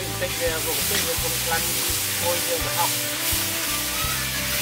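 Curry paste and shrimp paste sizzling in hot oil in a large wok, stirred with a metal ladle.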